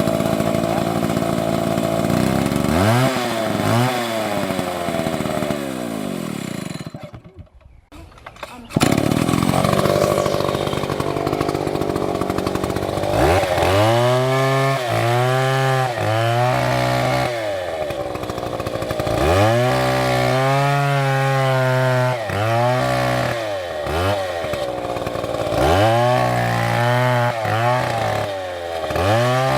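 Stihl MS720 two-stroke chainsaw running at high revs, cutting wood. Its engine pitch repeatedly sags under load and climbs back. There is a sudden break of about a second and a half roughly a quarter of the way in.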